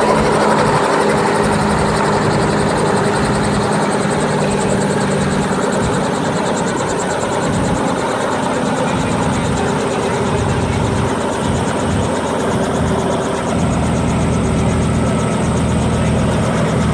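Tourist helicopter running close by, with a steady engine whine over a fast, even rotor chop that grows heavier in the low end in the second half.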